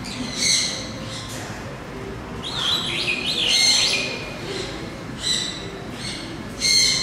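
Unseen birds calling: a few short, high calls, with a quick zigzagging run of chirps about three seconds in, over a steady background hum.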